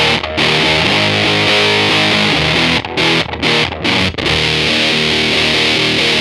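Electric guitar through a Big Muff-style fuzz pedal with the gain at 12 o'clock, playing thick, heavily fuzzed sustained chords. The notes are cut off by short stops, several of them in the middle of the phrase.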